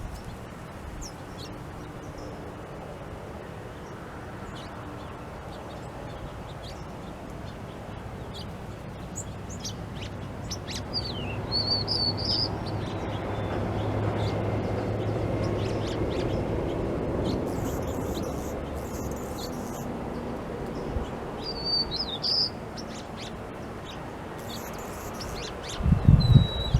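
Wild birds chirping and calling in short, scattered high notes, over a low background rumble that swells and fades in the middle.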